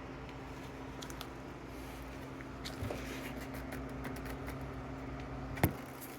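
Steady low hum with faint scattered clicks and light handling noise, and one sharp click near the end, after which the hum drops.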